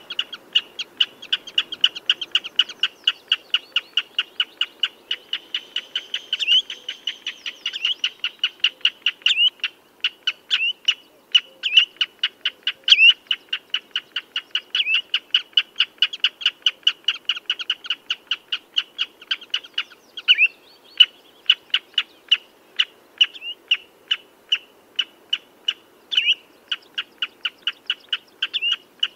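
Common redshank calling: a long, rapid run of sharp, piping notes at about four to five a second, with an occasional louder, down-slurred note.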